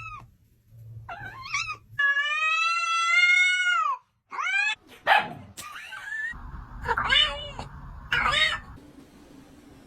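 Cat meowing: a few short meows, then one long drawn-out meow of about two seconds that drops in pitch as it ends, followed by more short meows.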